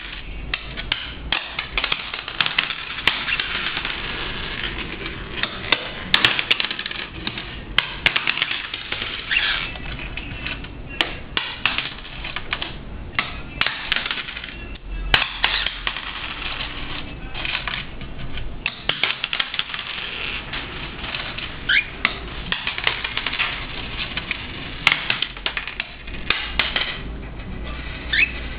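Pennies clinking and clattering onto a hard surface in quick, irregular clicks as a cockatiel picks them up and tosses them. A couple of short rising chirps come in the later part.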